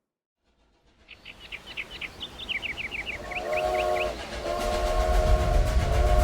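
Steam train sound effect: a low rumble builds from about a second in, with a run of short high squeals, then a chord-like steam whistle sounds a short blast and then a long, held blast, getting louder as the train starts away.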